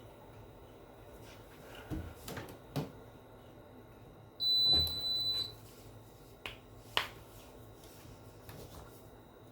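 A single high electronic beep lasting about a second, from the Hotpoint NSWR's control panel, with a few sharp clicks before and after it over a faint steady hum.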